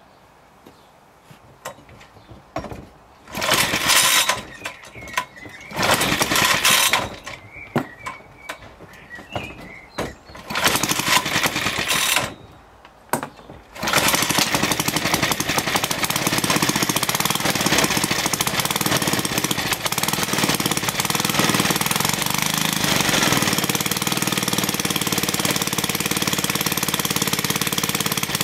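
Small petrol lawnmower engine being started: it fires for a second or two and dies three times, then catches about 14 seconds in and runs steadily. It runs well.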